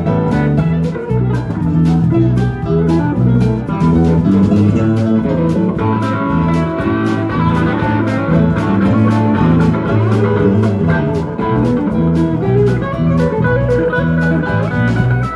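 Live blues-rock band playing an instrumental passage, with guitar prominent over bass and drums. The drums keep a steady cymbal beat.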